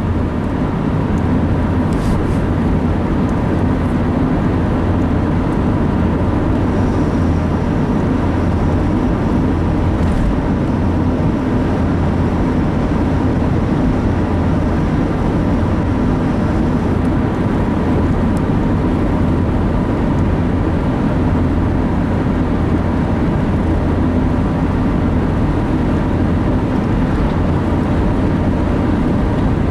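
Steady engine and road noise from inside a moving vehicle's cab at highway speed: a constant low drone that does not change.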